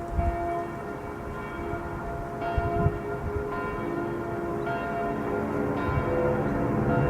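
Bell-like chiming tones, moving to a new chord about once a second, over a low jet-aircraft rumble that grows louder toward the end as the plane approaches.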